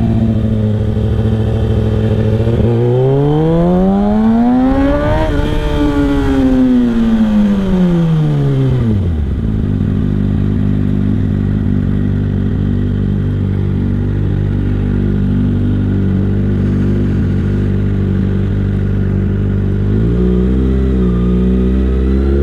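Kawasaki ZX6R 636's inline-four engine running steady, then rising smoothly in pitch over about three seconds and falling back over the next three or four. It then holds a long, steady low note, with a small rise in pitch near the end.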